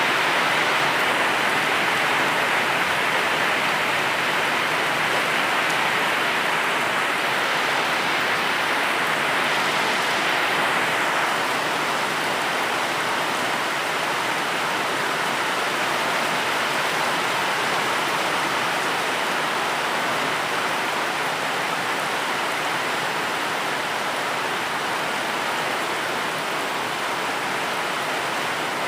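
Steady, even rain, a continuous hiss with no distinct drops or thunder.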